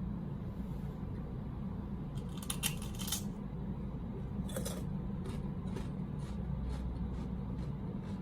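Sharp clicks and crackles of something being handled, then a run of light ticks about two a second, over a steady low hum.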